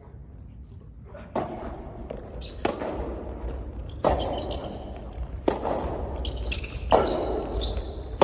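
Soft tennis rally: the rubber ball is struck by rackets at an even pace of about one hit every second and a half, each hit echoing in a large hall, with short high shoe squeaks on the court floor between hits.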